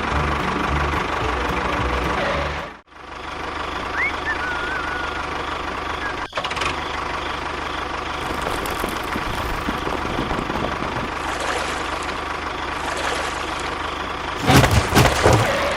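A small engine running steadily with a knocking note. It drops out briefly about three seconds in, and there is a louder clatter near the end.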